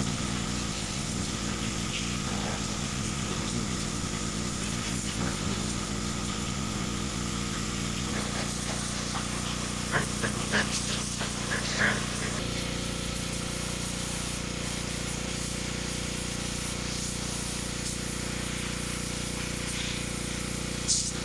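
Pressure washer running and spraying water onto a greasy transmission case, a steady motor hum under the hiss of the jet. Its pitch shifts a couple of times, and a few short sharp clicks come about ten to twelve seconds in.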